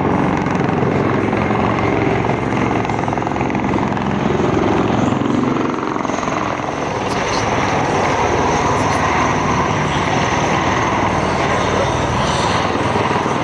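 Boeing Stearman biplane's radial engine droning steadily in flight. Its even engine note gives way after about six seconds to a broader rushing noise.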